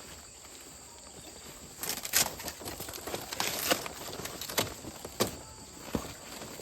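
Irregular sharp knocks and rustling, about five strikes spread over several seconds, of digging banana suckers out of the soil with a hand tool.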